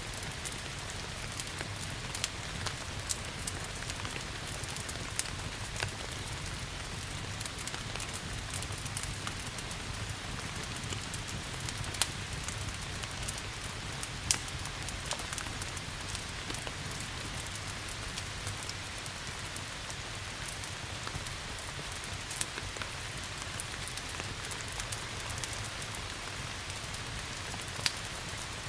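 Steady rain with wood fire crackle: a continuous hiss of rain with a low steady rumble underneath, and scattered sharp pops and snaps from the burning logs, a few of them louder.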